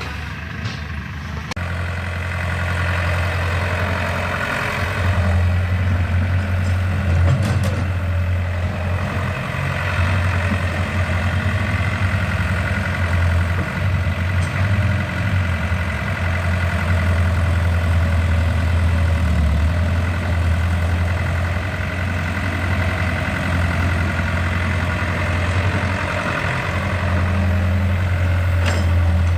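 Tractor diesel engine running steadily at a constant speed, with a low, even hum that grows louder about a second and a half in.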